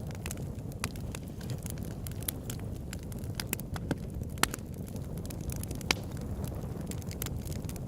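Campfire crackling: frequent sharp pops and snaps over a steady low rumble, with louder pops about four and a half and six seconds in.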